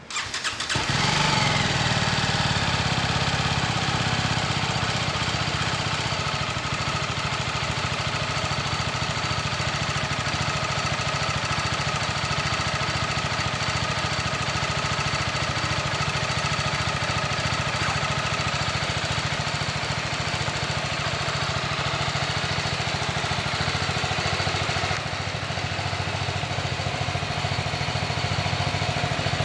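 BMW G310R's single-cylinder engine starting, rising briefly in revs and then settling into a steady idle.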